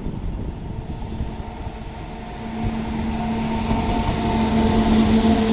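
WAP-7 electric locomotive hauling a passenger train as it approaches, with a low rumble and a steady humming tone that fades in about halfway through and grows louder as it nears.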